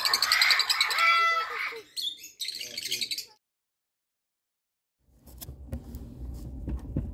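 Parrots chirping and squawking, with short whistled calls, for about three seconds. After a sudden cut to silence, a low rumble with scattered clicks follows.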